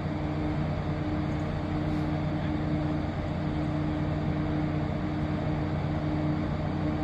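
Towboat's diesel engines running steadily at idle, a low even hum over a broad rushing noise.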